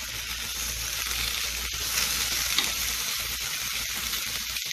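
Chicken, sliced potatoes and onions sizzling steadily as they fry in a nonstick grill pan, with metal tongs turning them and giving a few light clicks against the pan.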